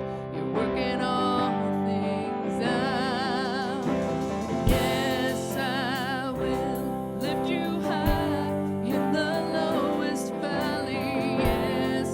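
Live worship-band music: sustained chords, with a singer holding wavering, wordless notes and three low drum hits.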